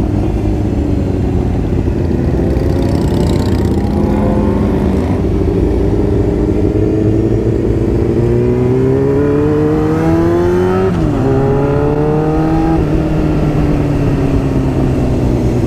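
Motorcycle engine running at low parade speed under the rider, with a low rumble of wind and road noise. The revs climb slowly about halfway through, drop sharply like a gear change a little later, then hold steady and ease off.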